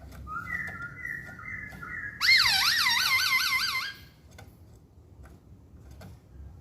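Black-throated laughingthrush (poksay Hongkong) singing: a thin, steady two-note whistle, then from about two seconds in a loud, siren-like warbling phrase whose pitch swoops up and down about four times a second, ending abruptly near four seconds. Faint ticks throughout.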